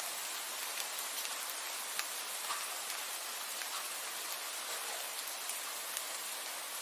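Steady rain falling: a dense, even hiss with scattered individual drops ticking through it.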